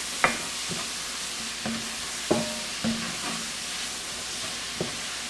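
Bacon, onion and garlic sizzling in a cast-iron Dutch oven as they are stirred, with about five sharp knocks of the stirring utensil against the pot, some leaving a short ring.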